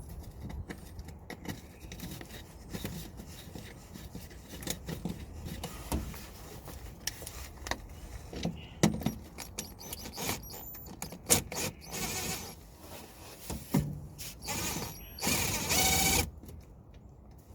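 Scattered clicks, taps and knocks of screws and a cover being handled and fitted in a car's engine bay, with two longer scraping sounds in the second half.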